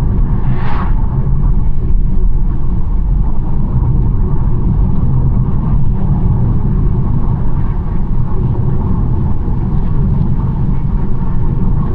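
BMW 1 Series driving at a steady speed: a constant low rumble of tyres on the road and the engine, with a brief hiss about a second in.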